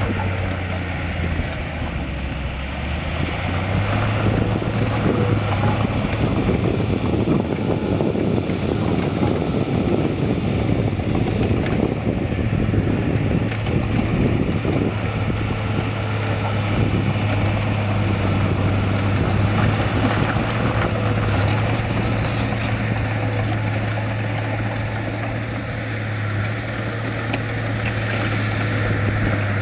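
Heavy diesel engine of earthmoving machinery running steadily, a low even drone with mechanical noise over it.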